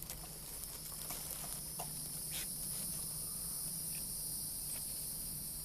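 A steady high-pitched insect chorus, with a low steady hum and a few faint clicks beneath it.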